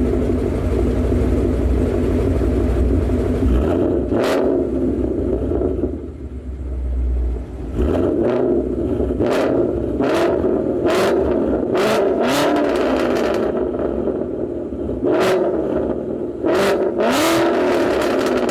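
Ford Mustang GT V8 with long-tube headers, X-pipe, Roush axle-back mufflers and resonators, running while parked. It idles for about four seconds, then is revved in short throttle blips, about ten of them in the second half, each rising in pitch and falling back.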